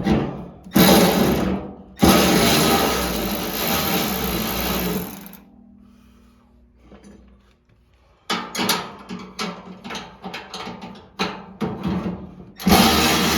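Power drill running in short bursts as it spins bolts out of the tractor, with a string of clicks and metal knocks between the runs.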